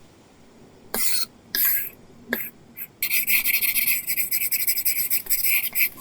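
Apple Pencil nib scratching across a paper-texture screen film on an iPad: a few short separate strokes, then about three seconds of fast continuous scribbling, as when shading or filling in.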